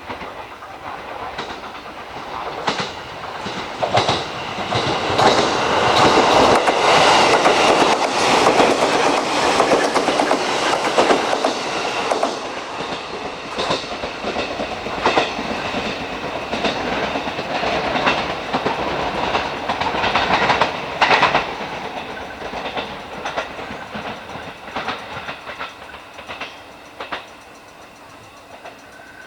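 Train running along the station track, its wheels clicking over the rail joints, growing louder over the first several seconds and then slowly fading away.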